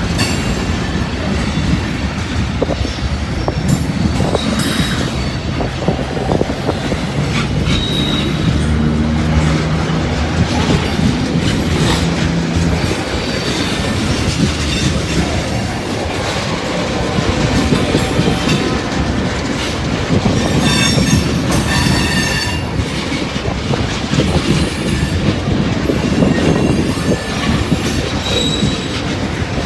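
Freight train cars rolling past with a steady rumble and clatter of wheels on rail joints. Wheel flange squeal comes and goes as the cars take the switches and curve, and is loudest about twenty to twenty-three seconds in.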